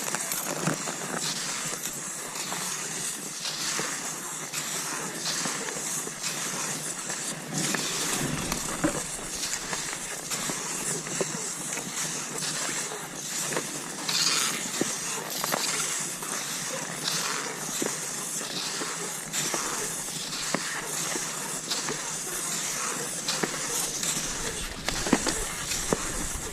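Cross-country skis swishing and hissing over snow in a steady striding rhythm, about one stroke a second, with the crunch of poles and skis in the snow.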